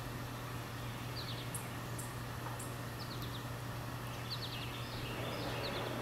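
Songbirds chirping: short high chirps, several in quick runs of two or three, over a steady low hum.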